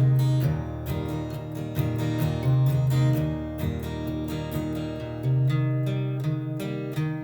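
Acoustic guitar strummed in a steady rhythm with no singing: the instrumental close of a song.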